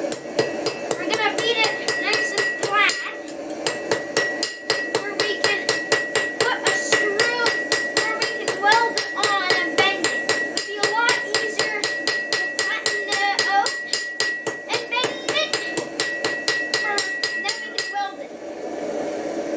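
Hammer striking hot metal in a blacksmith's forging session: rapid, evenly spaced blows, about five a second, that stop about eighteen seconds in.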